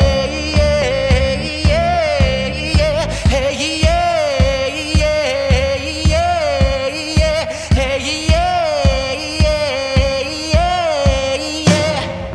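Live indie folk-rock band playing, with a steady low beat about twice a second under a melodic line that swells and falls in a phrase repeated about every two seconds. Right at the end the arrangement shifts to fuller drums and guitar.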